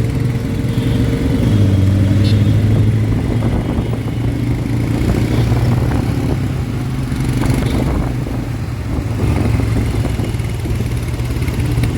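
McLaren 765LT's twin-turbo V8 running at low, steady revs: a steady low engine drone with only small changes in pitch.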